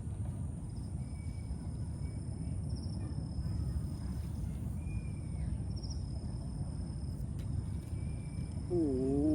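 Outdoor field ambience with a steady low rumble of noise. A bird gives short whistled notes every couple of seconds over a steady high-pitched insect drone. Music starts near the end.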